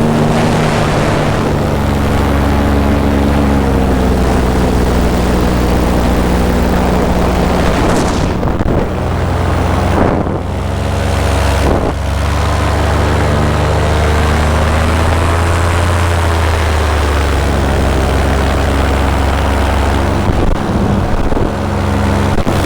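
Paramotor engine and propeller running steadily in flight, the engine speed drifting slightly up and down, with wind rushing over the microphone.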